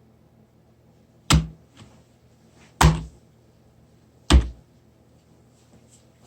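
Three loud thuds, evenly spaced about a second and a half apart, each with a short low-pitched ring after it, over faint room noise.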